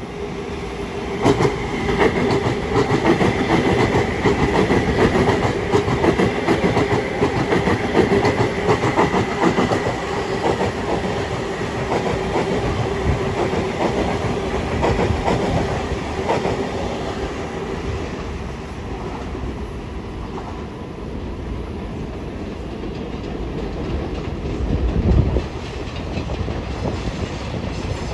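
Long Island Rail Road train passing, its wheels clicking over rail joints under a steady whine that fades after about ten seconds. A brief low thump comes near the end.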